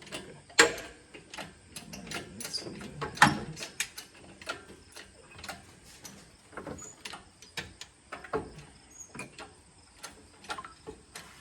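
Irregular mechanical clicks and clanks from lifting gear being tensioned to take the weight of a 5.4L engine, with a couple of louder clacks in the first few seconds.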